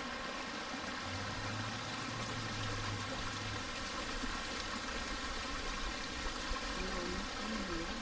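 A shallow, low-flowing rainforest creek running and trickling over rocks in a steady wash. A faint low hum comes in for a couple of seconds about a second in.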